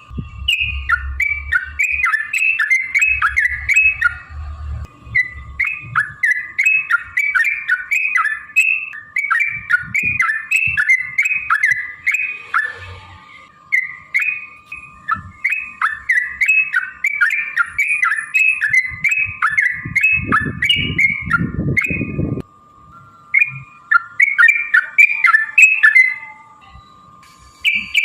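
Yellow-vented bulbul singing long runs of rapid, bubbling chirped notes, broken by a few short pauses. A faint steady hum runs underneath, and low rumbling noise comes in briefly near the start and again about two-thirds of the way in.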